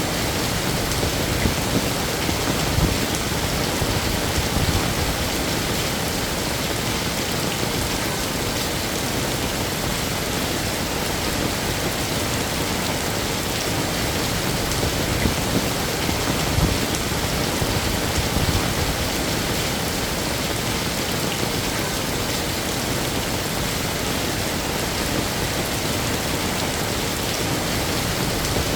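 Heavy rain falling steadily, a dense even hiss with occasional slightly louder spatters of drops hitting a surface.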